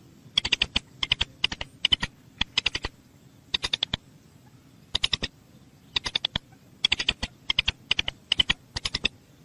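A bird's rapid, dry clicking or ticking calls, coming in short bursts of several clicks, with a pause of about a second near the middle.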